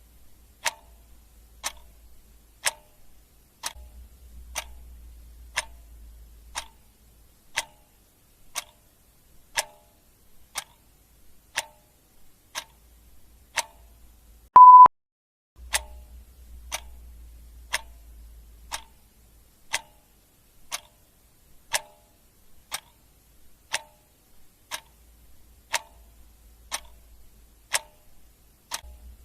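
Clock ticking sound effect, a sharp tick about once a second. About halfway through, a single short, loud beep sounds.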